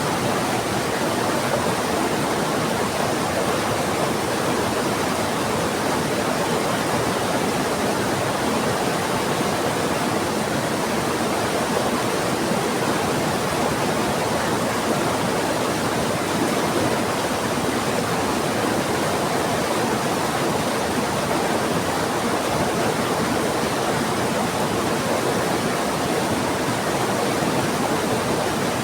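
Heavy rain falling together with a rushing river, a steady, unbroken rushing noise with no claps or breaks.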